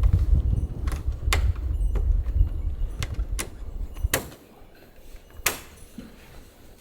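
Gusting low rumble of wind on the microphone that dies away about four seconds in, with a handful of sharp clicks scattered through it.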